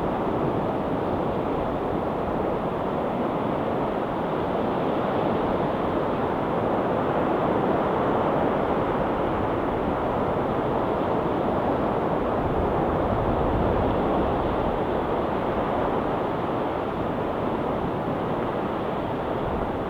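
Sea surf washing steadily onto a rocky shore, a constant rushing hiss that swells gently twice.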